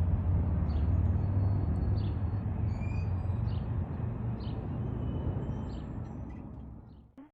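Freight train of tank cars rolling past: a steady low rumble with regular clicks about every two-thirds of a second, fading near the end before cutting off abruptly. A bird chirps briefly about three seconds in.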